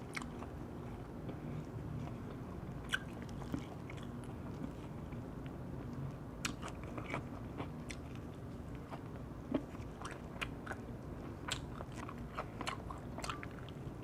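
Close-up chewing and biting of crispy-skinned wood-fired roast chicken wing, with scattered sharp crunches that come more often in the second half.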